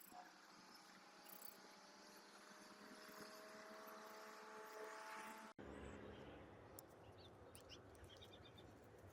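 Near silence: faint outdoor ambience with a distant engine whose pitch slowly rises over the first five seconds or so. The sound cuts off abruptly about five and a half seconds in and gives way to a faint low rumble with a few small clicks.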